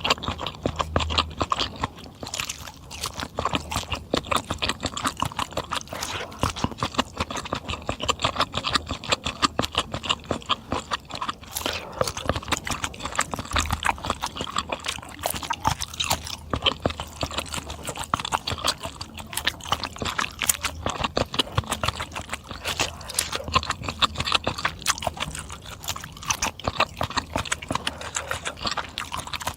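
Close-miked mukbang eating: chewing and lip smacking, a dense run of quick wet clicks.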